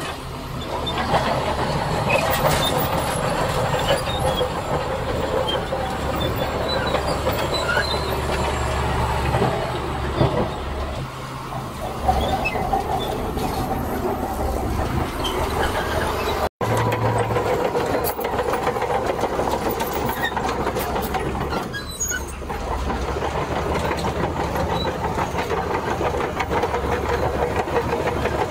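Diesel engine of tracked earthmoving machinery running under load, with continuous metallic clatter and a steady whine from its steel crawler tracks. There is a momentary dropout about two-thirds of the way in.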